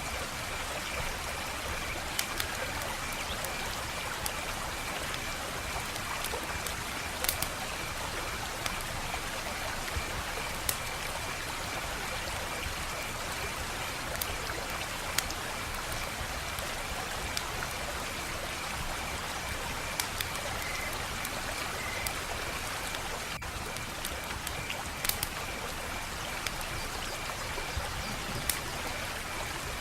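Wood fire crackling: a steady hiss with sharp pops every second or two, over a faint steady high trill.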